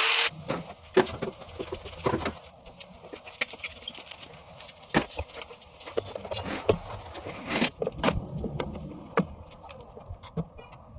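A loud hiss cuts off right at the start, then irregular clinks, taps and knocks of tools and metal parts being handled during washing machine repair work.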